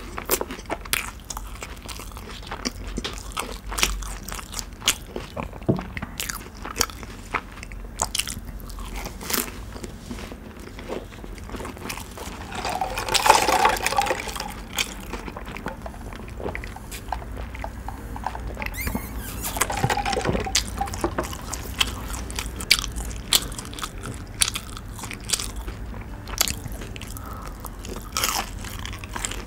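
Close-miked chewing of crispy fried chicken nuggets, with many small sharp crunches and wet mouth sounds. About halfway through, a louder hissing slurp as soda is sucked up through a straw.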